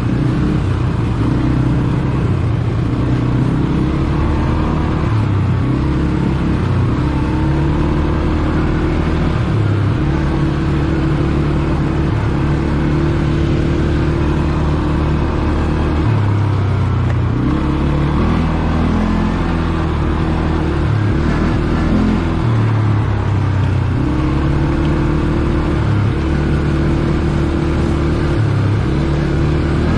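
ATV engine running under way, its pitch stepping up and down every few seconds as the throttle opens and closes.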